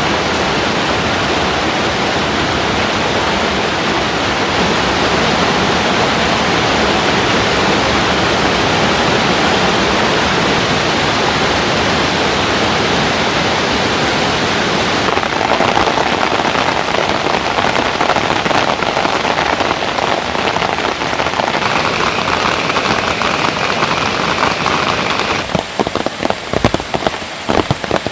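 Rain falling steadily, a dense even hiss of drops. About three-quarters of the way through the sound changes to separate drops striking unevenly.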